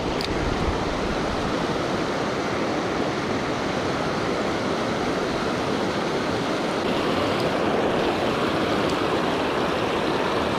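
Creek water rushing steadily over rocky shoals, an even running-water noise.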